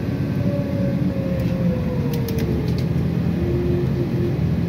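City bus running, heard from inside the passenger cabin: a steady engine and road rumble, with a whine that slowly falls in pitch over the first couple of seconds and a few light rattling clicks around the middle.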